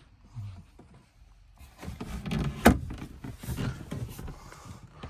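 Scraping and knocking as a storage compartment lid under a truck camper's side seat is opened, with one sharp knock a little past the middle.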